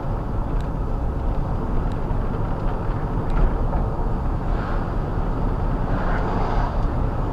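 Heavy vehicle's diesel engine running steadily, a low rumble.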